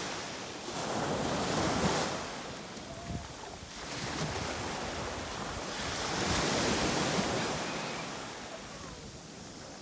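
Ocean waves breaking and washing up on a sandy beach in slow surges, swelling and fading every few seconds, with some wind buffeting the microphone.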